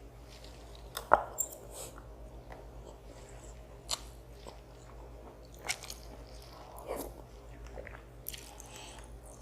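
Close-miked eating of instant noodles and rice: quiet chewing, with about six short sharp clicks or bites spread through, the loudest about a second in.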